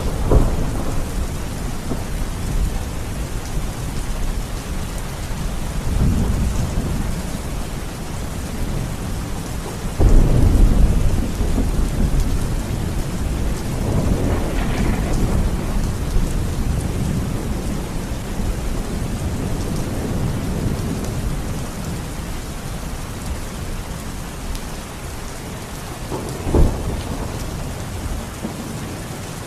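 Steady rain with rolling thunder: deep rumbles swell several times, one starting suddenly about a third of the way in, and a short sharp crack comes near the end.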